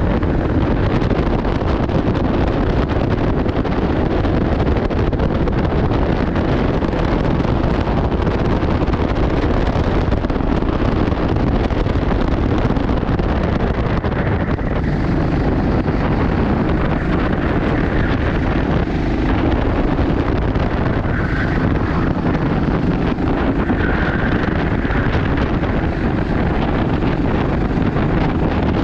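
Steady, loud wind buffeting on the microphone over the running noise of a racing kart, with no clear pitch or break.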